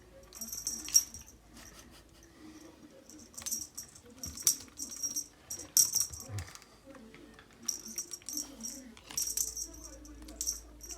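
A cat's feather wand toy rattling in short, high-pitched bursts as the cat bats and pulls at it, over and over at irregular intervals.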